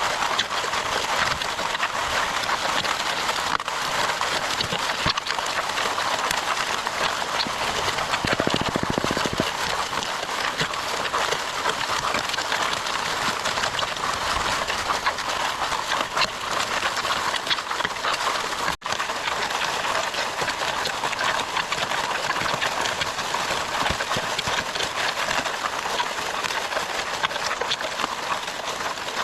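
Wet concrete and gravel churning and sliding: a steady gritty clatter with many small knocks. It breaks off for a moment about two-thirds of the way through.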